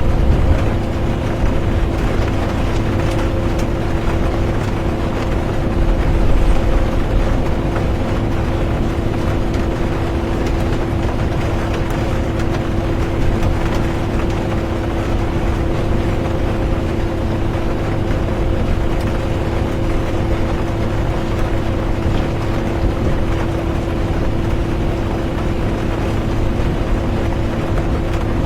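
Inside a moving bus: a steady low rumble of engine and road noise with a constant droning hum, and an even hiss of rain. It swells slightly about six seconds in.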